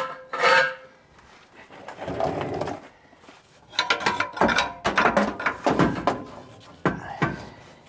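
Sections of cut exhaust pipe being handled and worked loose: a scrape, then a run of metallic clanks and knocks, some ringing, through the second half.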